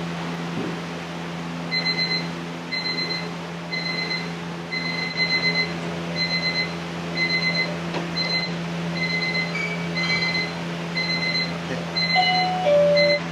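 An electronic alarm beeping repeatedly, about once a second, over a steady fan hum. Near the end a few shorter beeps come at different pitches.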